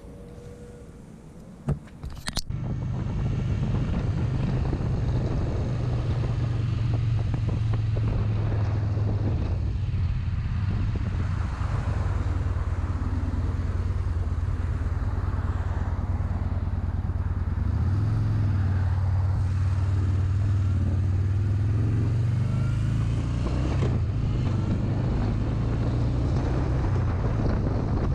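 Motorcycle engine running with a steady, low drone as the bike is ridden, the engine note shifting slightly partway through. It cuts in suddenly after about two seconds of quieter ambience broken by a sharp click.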